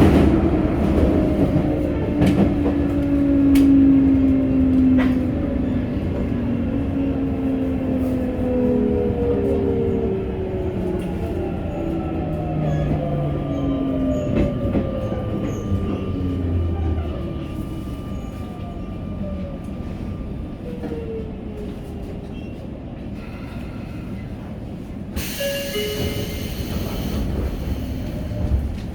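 Sagami Railway electric train slowing into a station: its traction motors whine in a cluster of tones that slide steadily downward in pitch as it brakes, over the rumble of the wheels, which grows quieter as it slows. Near the end there is a short hiss.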